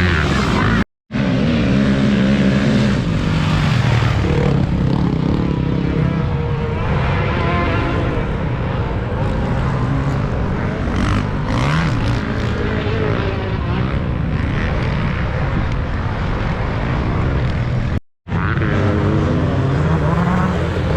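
Several motocross bikes' engines revving, their pitch rising and falling with the throttle. The sound cuts out completely for a moment twice, about a second in and near the end.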